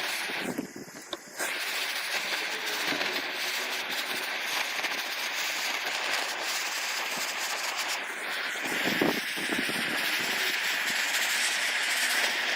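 Steady abrasive grinding hiss, breaking off briefly about half a second in and starting again about a second later.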